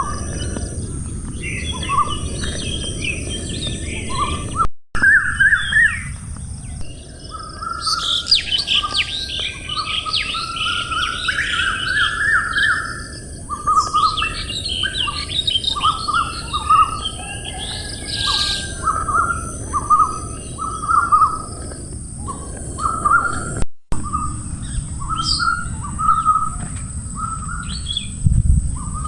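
Birds chirping, many short calls overlapping and busiest in the middle, over a steady high hum and low background noise, broken by two brief dropouts.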